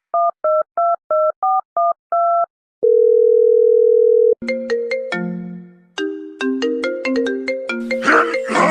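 Telephone keypad dialing: about eight short two-tone DTMF beeps, then a steady single-pitched ring signal for about a second and a half. A plucked ringtone-style melody follows.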